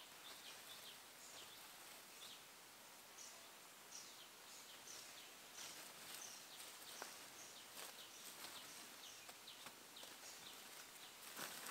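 Faint bird chirps: short, high calls that sweep downward, repeating several times a second over a quiet background hiss. A few soft clicks come through, and there is a little rustling near the end.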